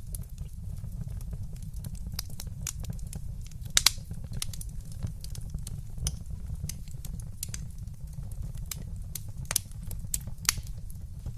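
Wood fire burning in a fireplace, crackling with irregular sharp pops over a steady low rumble. The loudest pop comes a little under four seconds in, and several more strong ones come near the end.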